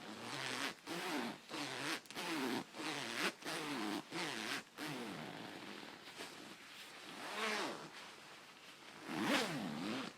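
Coat zipper being run quickly up and down in short strokes, about two a second, each stroke with a pitch that glides up and down. Near the end come two slower, longer strokes.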